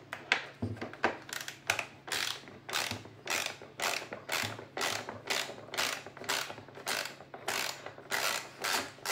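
T10 Torx screwdriver on an extension backing screws out of the vacuum cleaner's plastic housing, clicking steadily about two to three times a second.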